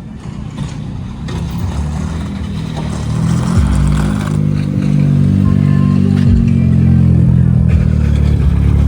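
Car engine running close by. It grows louder over the first few seconds, its pitch swells and eases, and then it holds a steady loud drone.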